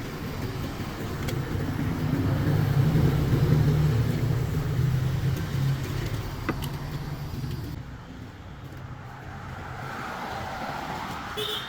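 A motor vehicle's engine running, swelling to its loudest about three seconds in and then fading away.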